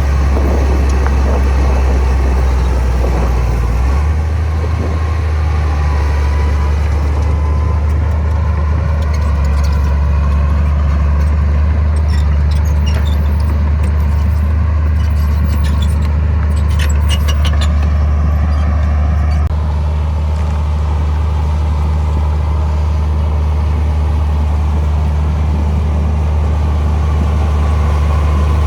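Heavy diesel engine of earthmoving machinery running steadily with a deep drone, its note shifting about four seconds in and again about two-thirds through. A run of light clicks and clanks comes in the middle.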